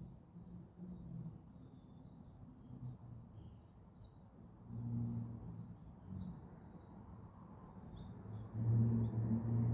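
Small birds chirping and twittering in short, high calls throughout, over a low engine hum that swells briefly in the middle and grows louder near the end.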